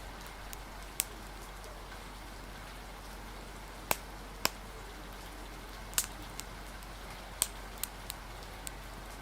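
Steady rain with about nine sharp, irregularly spaced crackles and pops over it, typical of a wood fire crackling.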